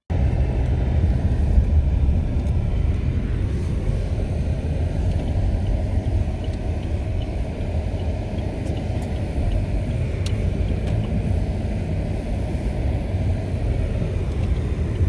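Snowstorm wind blowing hard against the microphone, a steady low rumble.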